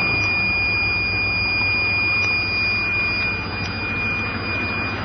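Chevrolet Suburban's diesel V8 idling steadily while it warms up after a cold start on straight vegetable oil. A steady high-pitched tone holds over the engine sound.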